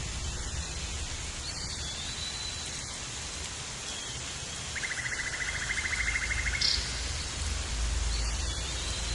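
Steady rushing hiss of wind and water around a moving boat, over an uneven low rumble. About five seconds in, a rapid, evenly pulsed buzzing trill lasts about two seconds, with a few faint short high calls around it.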